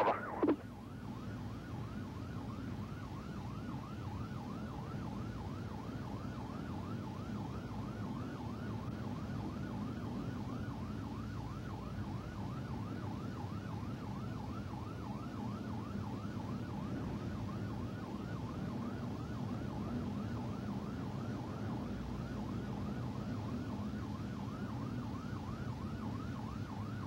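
Police car siren in a fast yelp, a quick rising and falling wail repeating several times a second, over the cruiser's steady engine and road noise during a high-speed pursuit.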